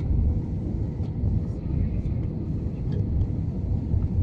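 Airliner cabin noise heard from a window seat: the steady low rumble of the jet engines and airflow, with faint passenger voices under it.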